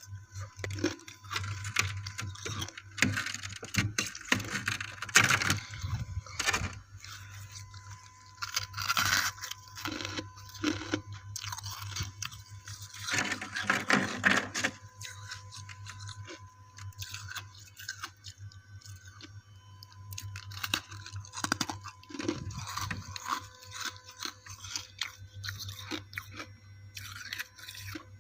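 Biting and chewing chunks of frosty ice close to the microphone: irregular crunches and squeaks, some in louder clusters.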